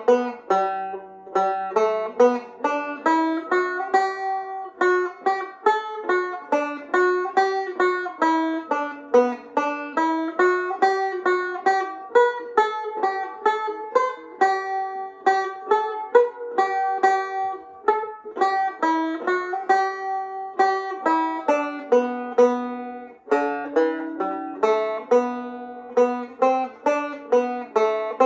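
Irish tenor banjo played solo at a slow tempo: a reel in G picked as a steady stream of single, sharply plucked notes that ring briefly.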